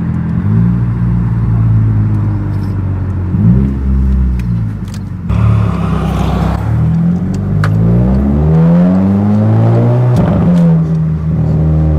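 Turbocharged VW GLI engine, fitted with an IS38 turbo, accelerating hard through the gears. Its note climbs and drops back at each gear change several times, with the longest pull in the second half. A brief rushing hiss comes a little past the middle.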